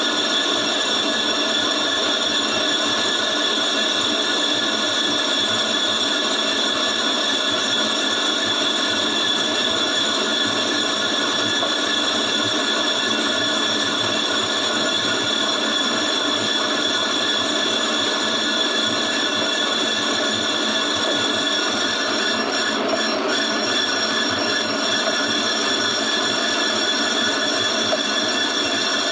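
A lathe turning a cast-iron car brake disc, its cutting tool skimming the disc face with a steady, high-pitched metallic squeal made of several fixed tones, unbroken throughout.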